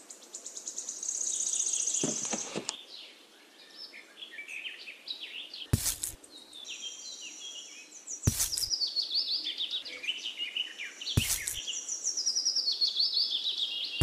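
Songbirds chirping and trilling in quick high phrases, with three sharp knocks a few seconds apart.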